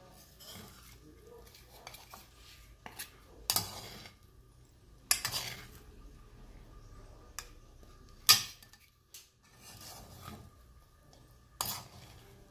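Metal spatula scraping and clanking against a large metal wok while fried rice is stirred and turned. Four louder scrapes come a few seconds apart, with softer scraping of rice between them.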